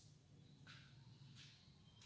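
Near silence: room tone with a low steady hum and two faint brief scratches.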